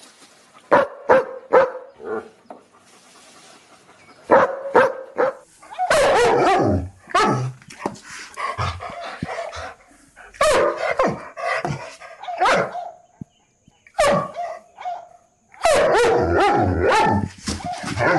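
German Shepherd barking in short, sharp barks, then from about six seconds on a deeper, faster run of barks from another dog, with a short held whine about fifteen seconds in.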